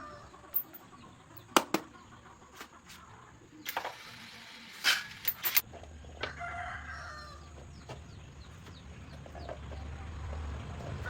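A rooster crows once about six seconds in, amid scattered sharp clinks and knocks from hand tools at work on the motorcycle wheel. A low rumble builds over the last few seconds.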